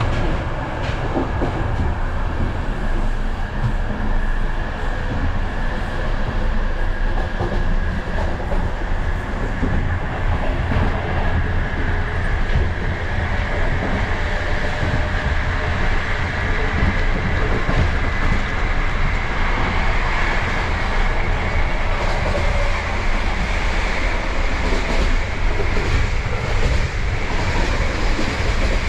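Bulgarian Railways (BDZ) passenger train running steadily, heard from on board: a constant rumble of wheels on rails with the clickety-clack of rail joints and a steady high ring from the running gear.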